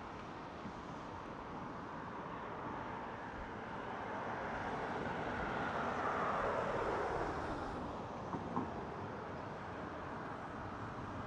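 Boeing 777-200ER jet passing by, its engine noise swelling to a peak about six seconds in and dropping in pitch as it goes past. Two faint clicks follow shortly after.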